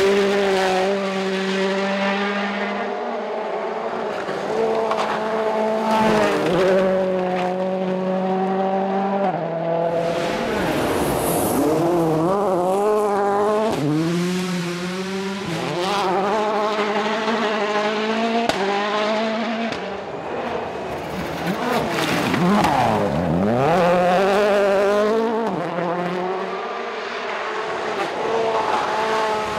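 Rally car engines revving hard at full throttle, the pitch climbing and dropping with each gear change and lift, with cars passing by and their pitch falling away, twice clearly.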